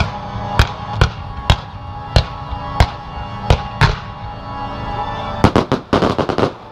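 Fireworks shells bursting one after another, about every half second to a second, over a music soundtrack, then a quick run of cracks near the end.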